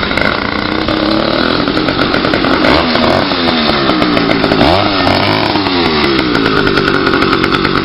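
80cc two-stroke motorized bicycle engine running with no baffle in the exhaust, its pitch swinging down and up as it is revved between about three and six seconds in.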